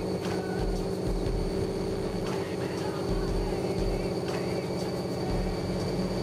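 A 2001 Camaro SS's LS1 V8 running at a steady speed on a chassis dyno, without revving, through a quad-tip exhaust, with its MAF sensor and air intake box removed.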